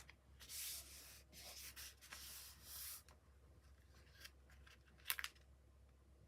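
Paper and card being handled on a tabletop: rustling, rubbing strokes for a couple of seconds, with a sharp click at the start and another about five seconds in.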